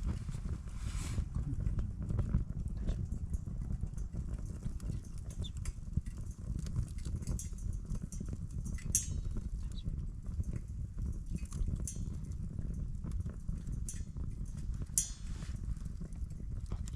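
Campfire crackling: irregular sharp pops and snaps of burning wood over a steady low rumble, with a few louder pops about nine and fifteen seconds in.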